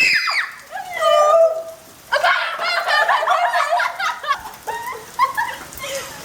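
A high-pitched scream cuts off at the start, followed by a squeal and then bouts of giggling laughter from teenage girls.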